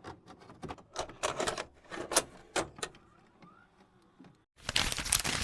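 Irregular sharp clicks and rattles of something being handled. A short burst of rushing noise starts suddenly about four and a half seconds in.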